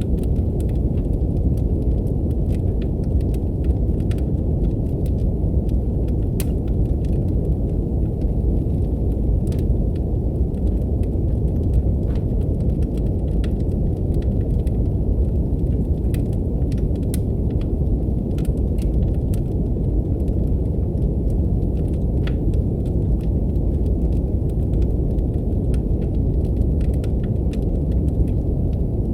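Steady brown noise, a deep even rush, with a wood fire's sparse crackles and pops over it.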